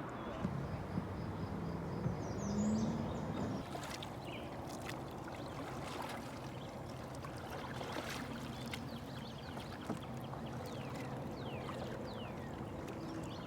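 Water swishing and trickling around a canoe on the river, with scattered light clicks and splashes from the paddle.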